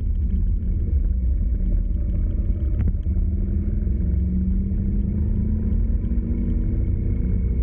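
A motor vehicle under way: steady engine and road rumble, the engine note rising gradually in the second half. One brief click about three seconds in.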